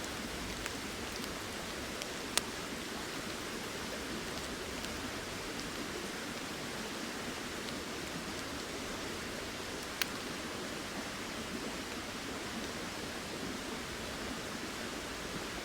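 Steady hiss of a flowing river and falling rain, with two single sharp ticks, one about two seconds in and one about ten seconds in.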